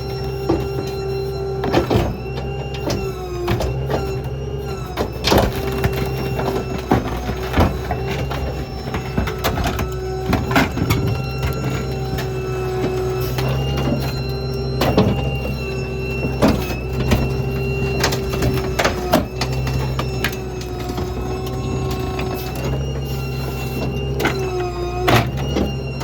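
Small rear-load garbage truck (Ford F-550 with New Way Diamondback body) running with a steady mechanical whine over the engine's hum, while debris is crushed: frequent sharp cracks, clunks and bangs of breaking junk throughout.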